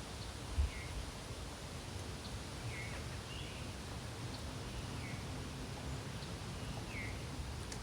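Quiet outdoor background with a steady low rumble and faint, short chirps, like distant bird calls, about once a second. There is a soft low thump about half a second in.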